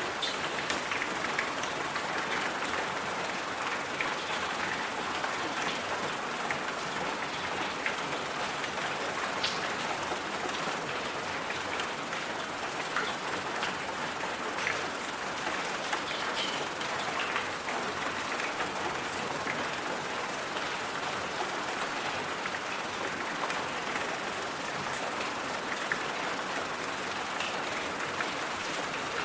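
Steady white-noise hiss, much like rain or static, with scattered faint ticks.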